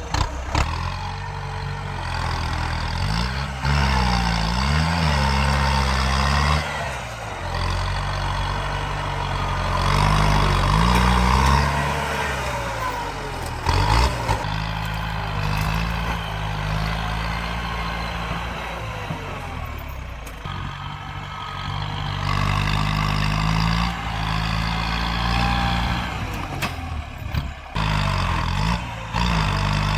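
Tractor diesel engine running under load, its pitch rising and falling several times as it revs up and eases off. There are a few short knocks along the way.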